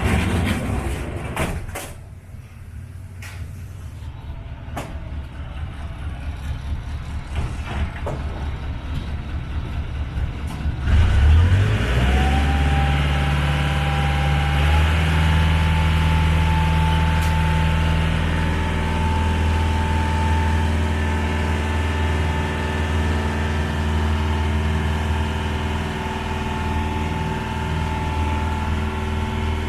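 Small ferry's engine idling with a low throb, then throttling up about eleven seconds in as the boat gets under way. A whine rises and then holds steady over the engine's even running.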